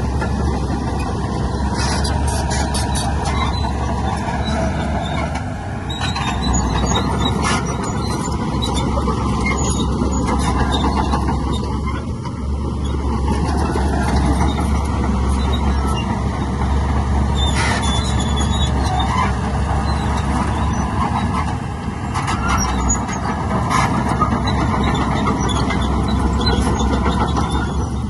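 Heavy earthmoving machinery running steadily, a loud diesel engine drone with sharp knocks now and then.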